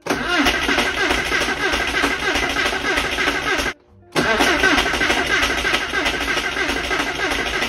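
Porsche 968's 3.0-litre four-cylinder engine cranked on the starter without catching, in two runs split by a sudden break. The owner first blames the misfire on spark plug leads fitted in the wrong order, and later finds the fuel pump is not running.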